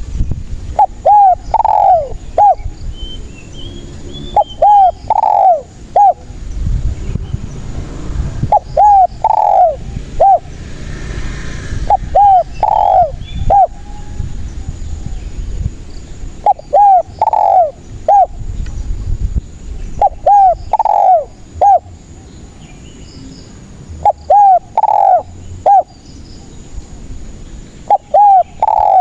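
Spotted dove (tekukur) cooing in a lively, persistent way: a short phrase of a few clipped coos, the middle one longest, repeated about every four seconds, over a low background rumble.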